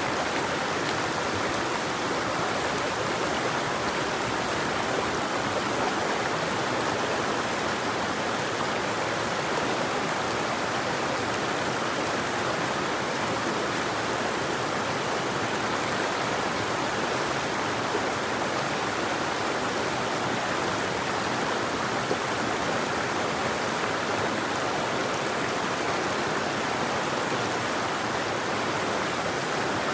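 River water flowing: a steady, even rush with no breaks and no birdsong.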